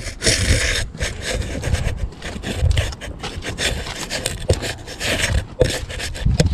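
Irregular scraping and rubbing: a quick run of short scratchy strokes.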